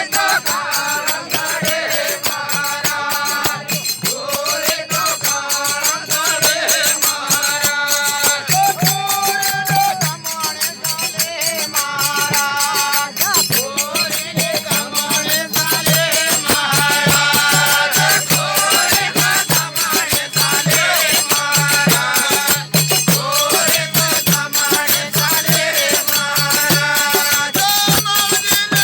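Indian devotional bhajan music: a melody line over fast, steady jingling percussion, played without a break.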